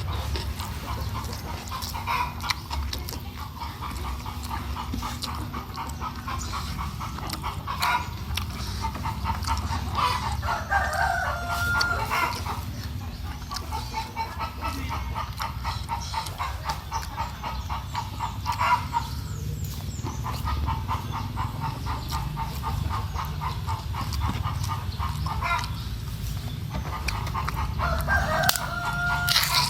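Chickens: hens clucking in long rapid runs, and a rooster crowing twice, once about ten seconds in and again near the end, over a steady low rumble.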